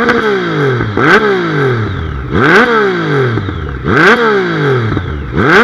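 Triumph Speed Triple's inline three-cylinder engine being revved in quick throttle blips, about four times: each time the pitch shoots up and slides back down.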